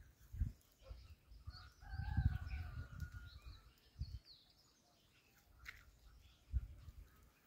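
Birds calling and chirping: one long, slightly falling call around the middle, with quick high chirps around it. Low thumps of wind and handling on the microphone come and go underneath.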